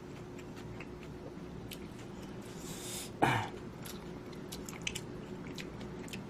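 Close-up mouth sounds of a person eating instant ramen: chewing with small wet clicks. About three seconds in comes one louder, short wet sound, possibly a slurp or gulp.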